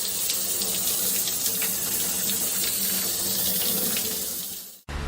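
Water running steadily from a tap into a sink, fading out shortly before the end.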